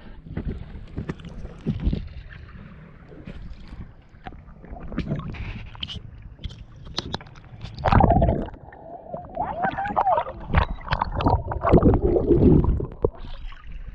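Water sloshing and gurgling against the hull of a small boat, with scattered knocks and clicks. It gets louder and busier for several seconds from about eight seconds in.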